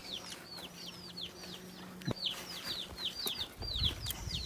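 A bird chirping rapidly: a run of short, high notes, each falling in pitch, about four or five a second. A faint steady hum sits underneath for the first three seconds.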